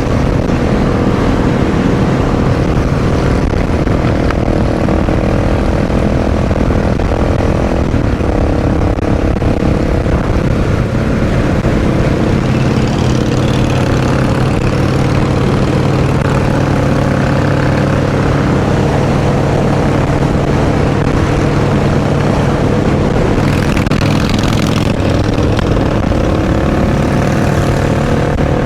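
Motorcycle engine running steadily under way, with wind noise.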